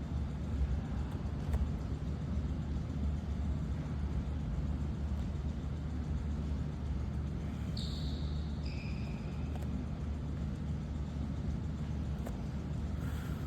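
Steady low rumble, with a few faint clicks and two short high chirps about eight seconds in.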